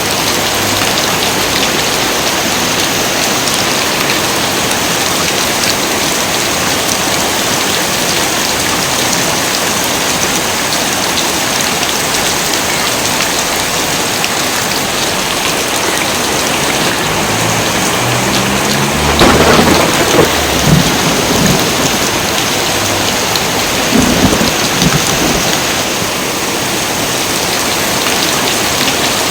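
Heavy rain pouring steadily. About two-thirds of the way in, thunder rolls in with a loud crack, and a second peal of thunder follows a few seconds later.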